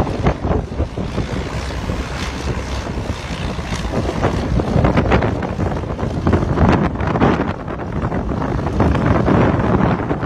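Wind buffeting the microphone: a loud, irregular rushing rumble that gusts up and down.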